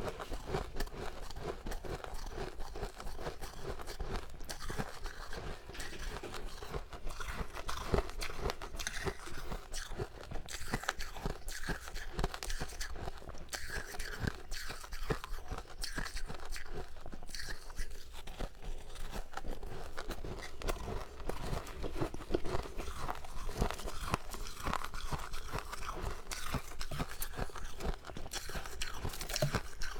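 Close-up mouth sounds of freezer frost being bitten and chewed: a continuous run of soft, rapid crunches.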